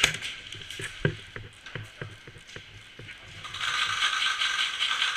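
Airsoft gun mechanism clicking a few times, then a rapid, steady mechanical rattling whir starting about three and a half seconds in.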